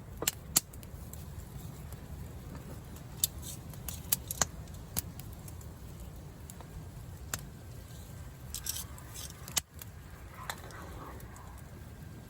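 Campfire crackling with scattered sharp pops, over a steady low rumble of storm wind.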